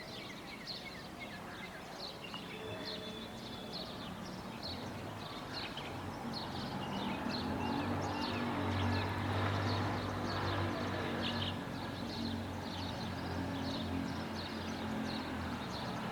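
Many small birds chirping in quick, overlapping short calls throughout. A motor's low steady hum comes in about six seconds in, is loudest around nine to ten seconds, then carries on a little quieter.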